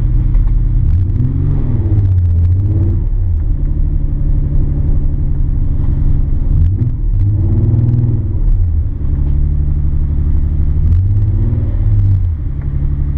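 Nissan 300ZX twin-turbo VG30DETT V6 running, its revs rising and falling three times. It is a freshly built engine being broken in on only a couple pounds of boost.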